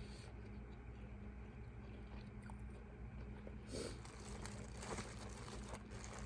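Faint eating sounds: chewing and biting into seafood-boil shrimp, busier from about four seconds in, over a steady low hum.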